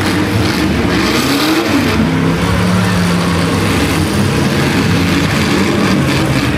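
Demolition derby car engines running and revving, one climbing in pitch about a second in, then holding a steady note.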